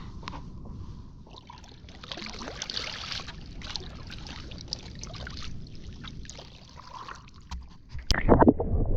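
Water sloshing and trickling against a fishing kayak, with small knocks, louder for a few seconds in the middle. A sudden loud rumble near the end.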